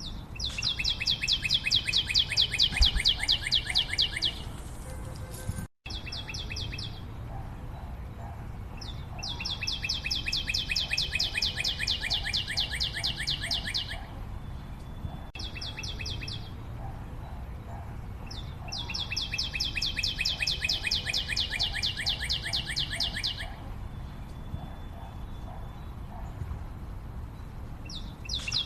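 A rapid, high chirping trill of about ten pulses a second, in bouts of four to five seconds, each led by a brief burst, repeating about every ten seconds. The sound cuts out for an instant about six seconds in.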